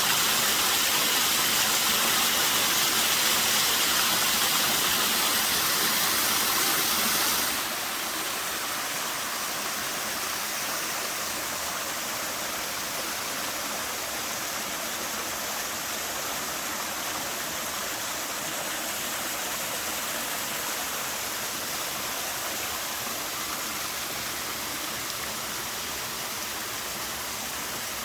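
Small waterfall at somewhat low flow: the steady rush and splash of falling water. About a third of the way in the sound drops suddenly to a softer, less hissy level, then stays steady.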